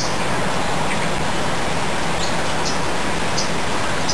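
A bird chirping a few short, high calls over a steady outdoor background hiss.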